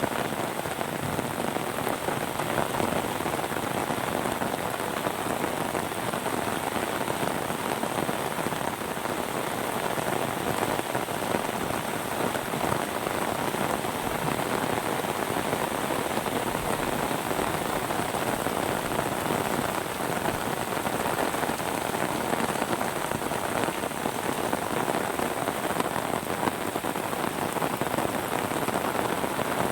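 Steady rainfall pattering on surfaces, a dense, even hiss of drops that holds constant.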